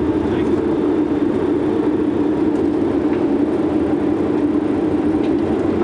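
Steady, loud rushing noise on the flight deck of an MD-80 airliner on approach: air streaming past the cockpit together with the engines, unchanging throughout.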